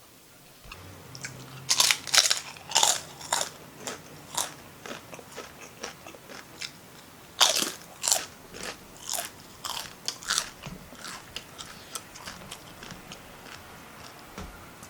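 Close-miked eating sounds: crunchy bites, two loud clusters of crunching about two seconds and seven and a half seconds in, each followed by softer, irregular chewing.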